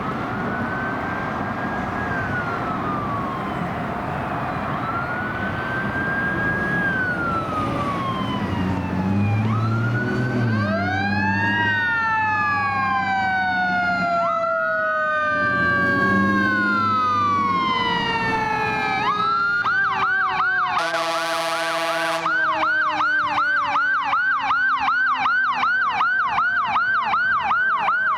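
Fire engine running code 3: its electronic siren wails in slow rising and falling sweeps, then switches to a fast yelp about two-thirds of the way through, while a mechanical siren winds down in one long falling tone. Air horn blasts come in several times, the longest just after the switch to yelp.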